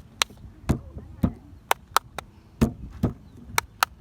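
Irregular sharp clicks and knocks, about ten in four seconds, over a faint low rumble: the ride-on vehicle and the phone mounted on it rattling over bumps as it rolls.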